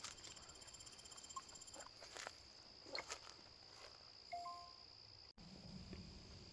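Faint insects trilling steadily in the background, with a few faint light knocks and a brief two-note tone about four seconds in.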